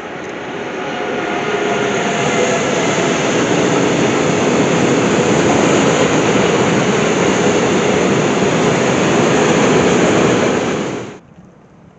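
Freight train of tank wagons hauled by an electric locomotive rolling past: a loud, steady rush of steel wheels on rails. It builds over the first couple of seconds and cuts off suddenly near the end.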